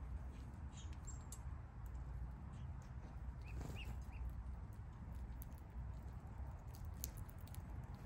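Backyard ambience: a steady low rumble with a few short, faint small-bird chirps about three and a half seconds in, and a few faint clicks near the end.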